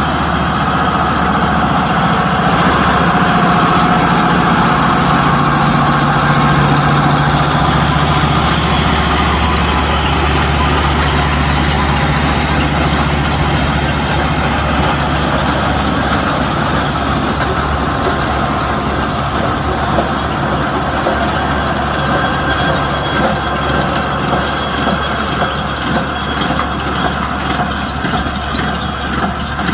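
Kubota M125X tractor's diesel engine running steadily while driving a baler. In the last few seconds the sound begins to pulse slightly in loudness.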